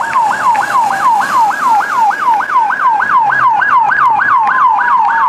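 Electronic police siren in a fast yelp, a rapid warbling sweep repeating about four times a second, loud and even.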